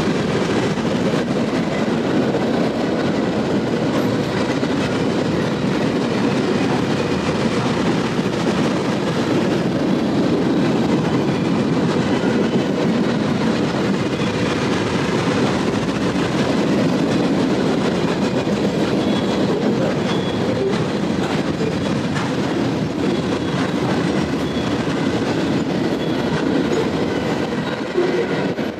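Freight train of flatcars loaded with military vehicles rolling past, a steady rumble and clatter of steel wheels on the rails; the last car goes by near the end.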